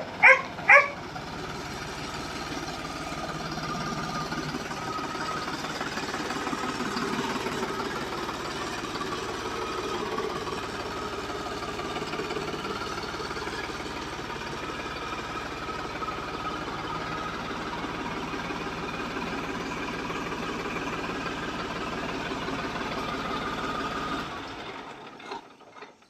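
A motor running steadily, a dense even mechanical noise that fades away near the end.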